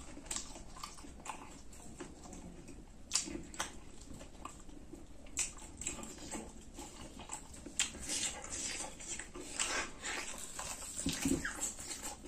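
Close-up eating sounds: wet chewing, lip-smacking and sharp mouth clicks at an irregular pace, from eating roasted buffalo meat by hand.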